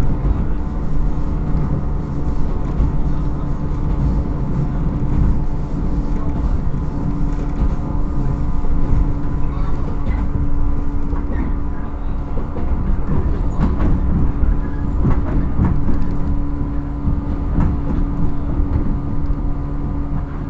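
JR 115 series electric train heard from inside a motor car with MT54 traction motors, running at a steady speed: a constant motor and gear hum over wheel-on-rail rumble. Sharp clicks from the wheels crossing rail joints come in the second half.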